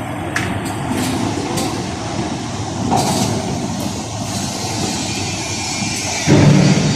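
Industrial bubble vegetable washing machine running: a steady mechanical noise with a few sharp clicks, and a louder low burst about six seconds in.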